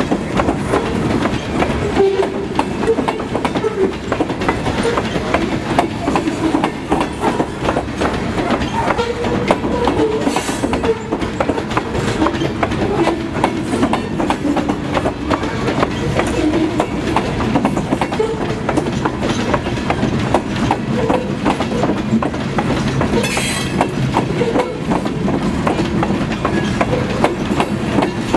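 A long train of loaded CSX covered hopper cars rolling past, the steel wheels clacking and rumbling steadily over the rails. Two short high hissing sounds cut in, about ten seconds in and again near twenty-three seconds.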